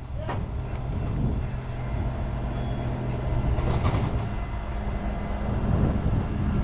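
Tow truck engine running steadily at a constant speed, with a few short knocks, the clearest about four seconds in.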